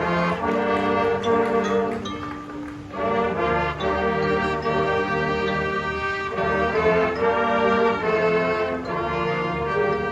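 A high school marching band's brass section playing sustained chords in broad phrases. There is a brief dip between phrases about two and a half seconds in and another chord change around six seconds.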